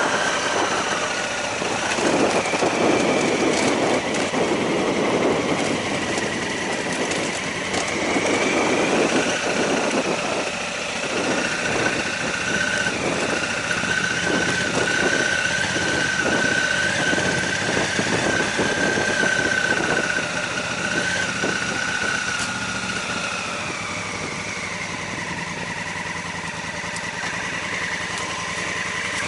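Honda Africa Twin's parallel-twin engine running under way on a dirt track, heard from the rider's seat over a steady rushing noise. Its pitch climbs about a third of the way in and drops back near the end as the throttle changes.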